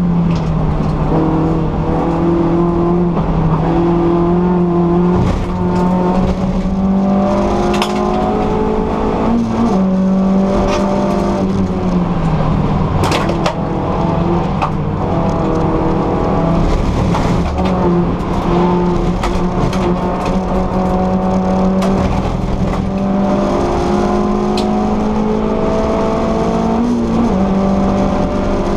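VW Lupo GTI Cup race car's 1.6-litre four-cylinder engine heard from inside the stripped cabin, running hard on track. Its pitch steps up and down several times with gearshifts and braking. A few sharp knocks cut through it.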